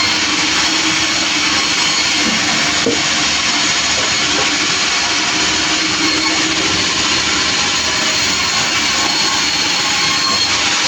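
Sawmill machinery running steadily: a loud, even mechanical noise with no pauses.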